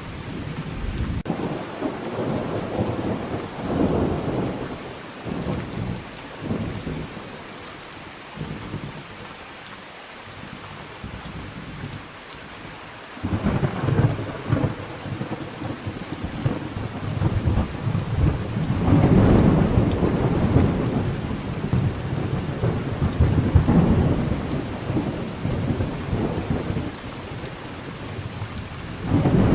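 Thunderstorm: steady rain with rolling thunder. A rumble swells and dies away early, leaving mostly rain for several seconds. About halfway a sudden crack sets off long, loud, rolling rumbles that come and go until the end.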